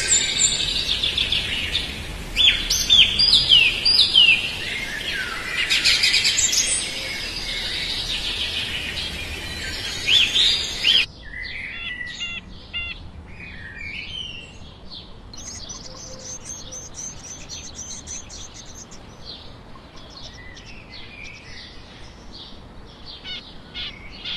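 Small birds chirping and calling, with many short sweeping notes. About halfway through the background noise cuts off abruptly, and fainter, rapid, high-pitched chirps continue.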